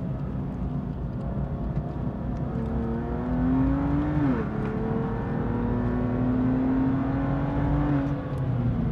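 BMW M2 Competition's twin-turbo straight-six accelerating hard out of a corner. Its pitch climbs from about two and a half seconds in, drops sharply at about four seconds as it shifts up, then climbs again to a second upshift near the end.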